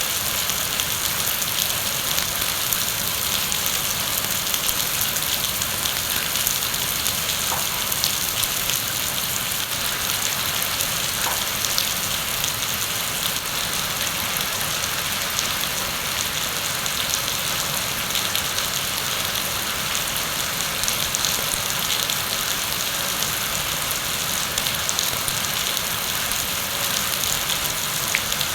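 Heavy rain falling steadily, a dense even hiss with fine patter of drops.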